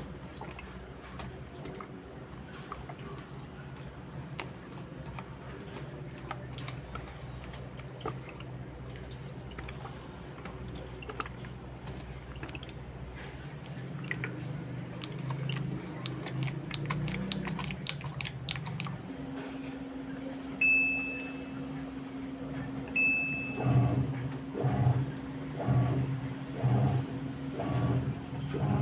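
Washing machine being started: small clicks of handling, then two short electronic beeps from the control panel. A steady low hum sets in as the machine starts, with pulsing surges about once a second near the end as water begins to run in.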